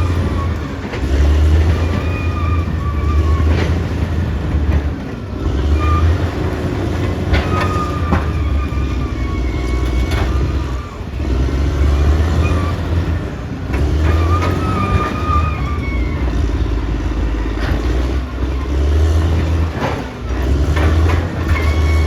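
Caterpillar D6R XL bulldozer working: its diesel engine runs under load that rises and falls every few seconds, with a wavering high squeal at times and occasional metallic clanks from the machine.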